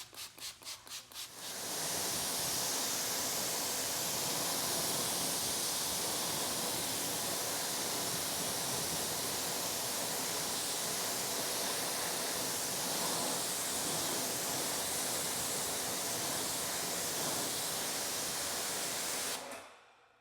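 Pressure-washer water jet spraying steadily, rinsing spray-on sealant off car wheels, and cutting off sharply near the end. It is preceded by about a second and a half of rapid short hissing pulses.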